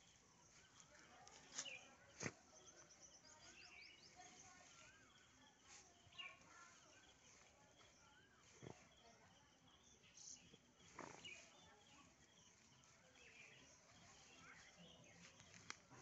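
Near silence: faint outdoor ambience with distant chirping bird calls and a few brief sharp clicks, the loudest about two seconds in.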